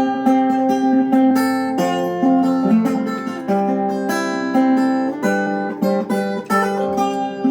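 Acoustic guitar playing an instrumental break in a folk ballad: plucked and strummed chords ringing one into the next, with no singing.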